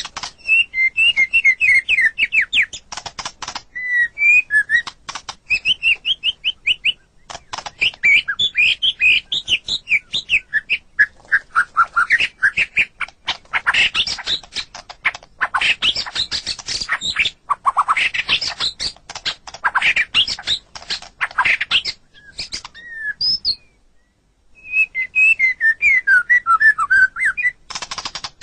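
White-rumped shama (murai batu) singing: fast runs of short whistled notes and slurred glides, broken up by dry rattling chatter. There is a short pause about three-quarters of the way through before the whistled phrases resume.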